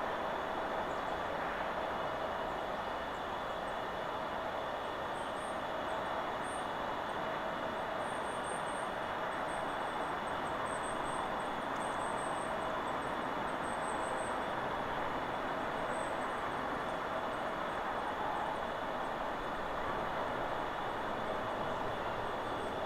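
Steady rushing of wind through forest trees, with small, high-pitched bird chirps coming and going from about five to sixteen seconds in.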